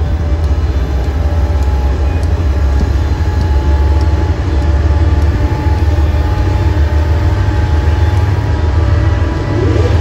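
A train rolling past, a loud, steady low rumble with faint thin squealing tones over it.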